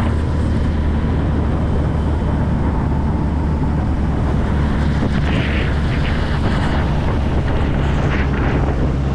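Yamaha 20 hp tiller-handle outboard running steadily at part throttle with the boat up on plane, during the second hour of its break-in. Wind buffets the microphone.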